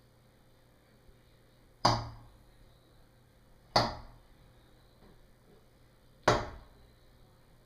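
A bird striking a window pane three times, about two seconds apart, each a sharp knock on the glass that dies away quickly.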